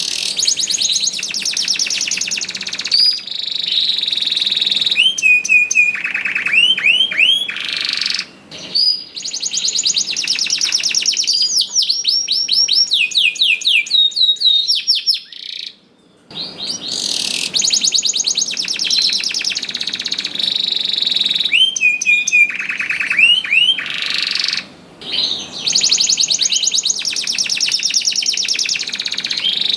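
Domestic canary singing loud, long song phrases of rapid trills and rising whistled sweeps, with short breaks about 8, 16 and 25 seconds in.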